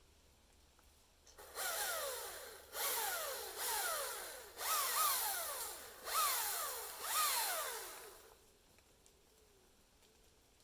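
Chainsaw revved in six short bursts about a second apart, the engine speed dropping after each.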